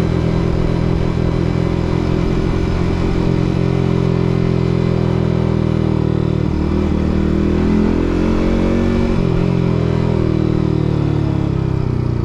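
Yamaha MT-15's single-cylinder engine running while riding, its note dipping and rising about halfway through, then falling near the end.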